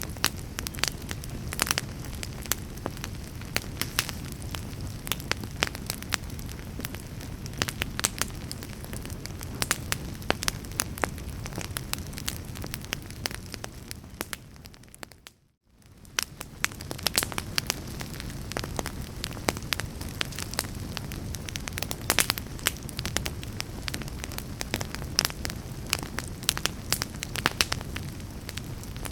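Wood fire in a fireplace crackling and popping, with many sharp snaps over a low steady rumble and hiss. About halfway through it fades out briefly and fades back in.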